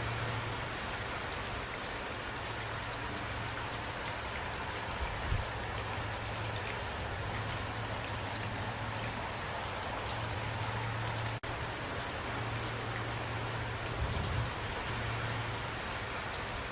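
Steady rain falling: an even hiss of many drops with scattered single drop ticks. The sound cuts out for an instant about two-thirds of the way through.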